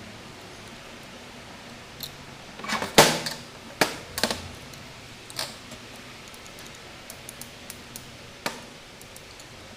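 A string of sharp clicks and knocks of hard objects being handled, the loudest cluster about three seconds in, then single knocks and a few light ticks.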